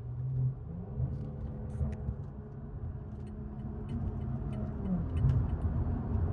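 Engine and road noise of a big-turbo BMW 540i, heard inside the cabin: a steady low rumble, with the engine note dropping briefly in pitch about five seconds in.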